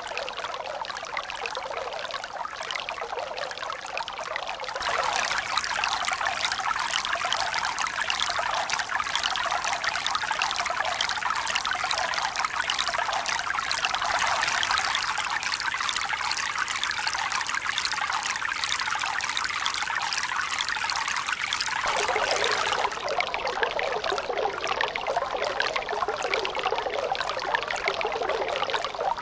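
Steady rushing and splashing of running water. It gets louder and brighter about five seconds in and drops back down about two thirds of the way through.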